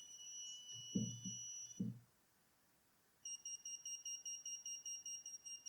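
Active piezo buzzer driven by an Arduino, sounding a steady high buzz for under two seconds, then after a short pause beeping rapidly about six times a second as the sketch switches it on and off. A few faint low knocks come in around the first buzz.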